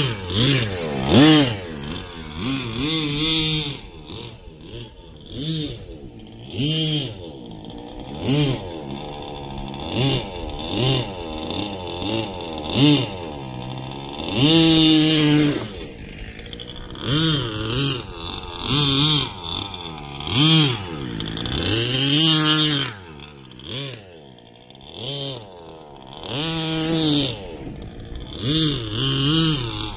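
HSP 1/8 monster truck's 3.5cc (.21) nitro engine, a small two-stroke, running under repeated throttle: its pitch sweeps up and falls back again and again, with a few hard revs among the shorter blips.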